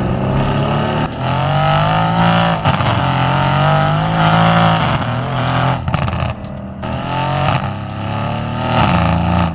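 Car engine revving loudly, its pitch rising and falling over several revs, with abrupt changes about six and nine seconds in.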